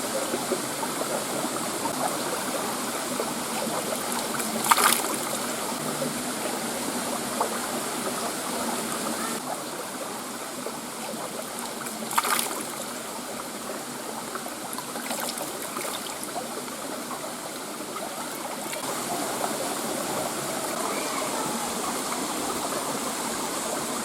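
Water of a shallow creek running steadily over rocks, with two short sharp sounds about five and twelve seconds in.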